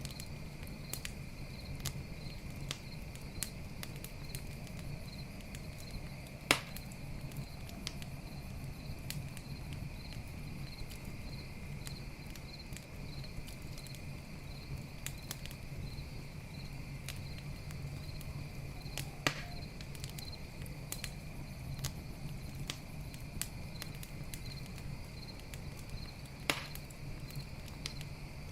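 Campfire crackling with scattered small snaps and three sharper pops, over steady chirping of night insects and a low rumble from the fire.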